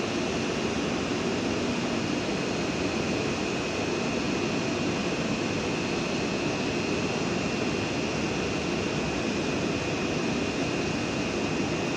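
PESA Dart ED161 electric multiple unit running steadily: an even rushing machine noise with a high, steady whine above it, unchanging in level throughout.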